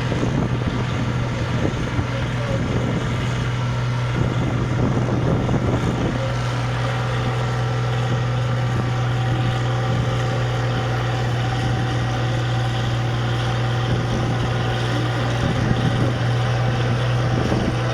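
International Harvester 956 XL tractor's six-cylinder diesel engine running hard at a steady pitch, pulling the sled down the track.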